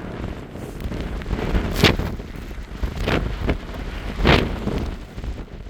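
Storm-force wind gusting against the tent and the microphone, a steady rushing rumble broken by four sharp cracks, the loudest a little under two seconds in and another just past four seconds.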